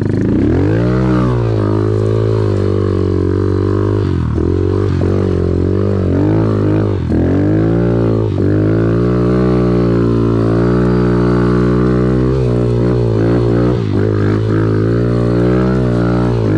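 Off-road vehicle engine running hard under load on a steep, muddy hill climb, its revs rising and falling with the throttle, with a few brief drops in pitch as the throttle is let off.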